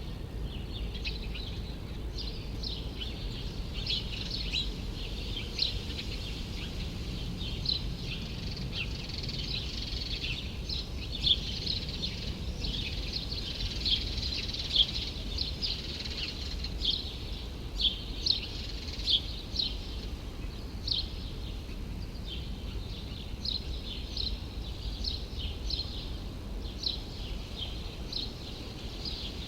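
Birds chirping in a courtyard: many short high chirps in quick succession throughout, over a steady low hum of city background noise.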